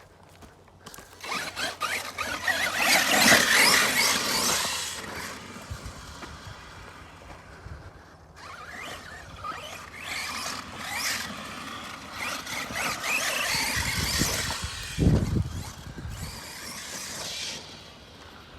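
Arma Mojave 6S electric RC truck running, its motor and drivetrain whining high as it revs in two long bursts with a quieter lull between them.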